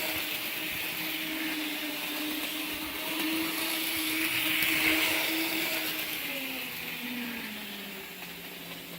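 N scale Life-Like GP18 model diesel locomotive running at high speed: the small electric motor in the model gives a steady whine over a hiss. The whine grows louder to about halfway, then drops in pitch and fades near the end.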